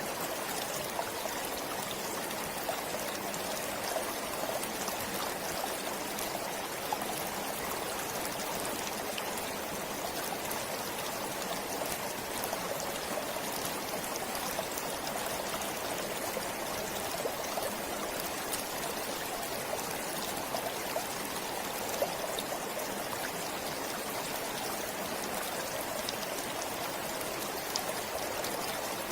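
Forest stream flowing steadily: a continuous rush of babbling water with scattered small splashes and drips.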